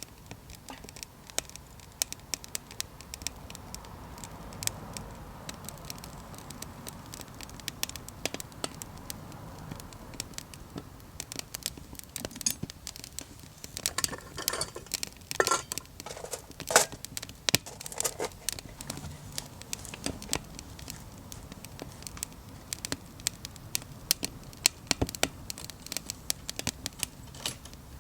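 Small wood fire crackling, with irregular sharp snaps and pops from the burning wood and a cluster of louder snaps around the middle.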